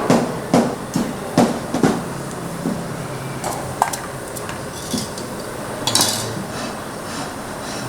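Kitchen clatter of utensils and dishes: a run of about five sharp knocks in the first two seconds, then scattered clinks and knocks.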